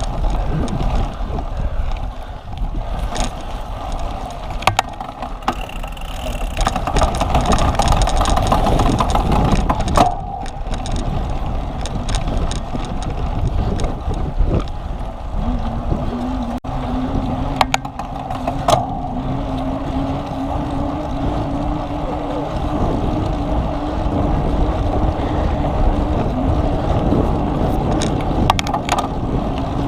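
Wind rush and rolling noise from a bicycle ridden over rough ground, with scattered sharp clicks and rattles. A steady low hum comes in about halfway through and holds.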